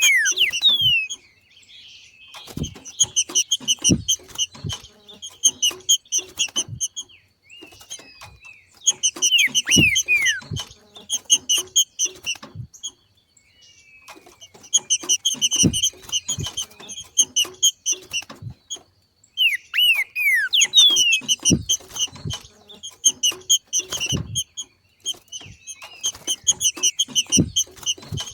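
Trinca-ferro (green-winged saltator) giving its macheado call: repeated bursts of rapid chattering notes, each a second or two long, with quick falling slurs between them. Soft low knocks sound among the calls.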